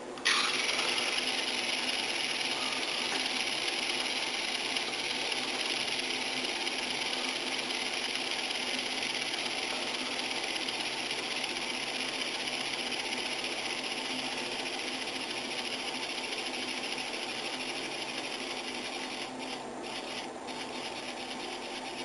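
Water running steadily in a bathroom, a hiss that switches on suddenly and eases off slightly near the end.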